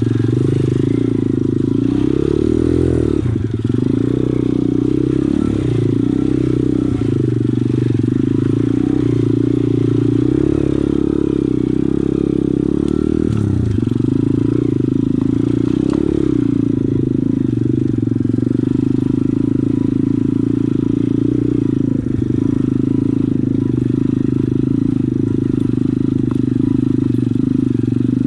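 Pit bike engine running under way, loud and continuous, its note shifting up and down with the throttle for about the first thirteen seconds, then holding steadier.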